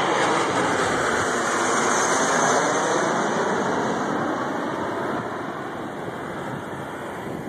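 Jet airliner passing low overhead on final approach to land: a steady rush of engine noise, loudest about two seconds in, then fading away.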